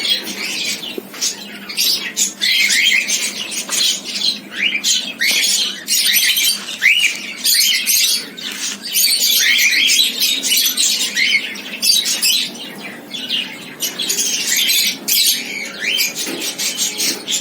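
Cockatiels chirping and squawking, many short calls overlapping without a break.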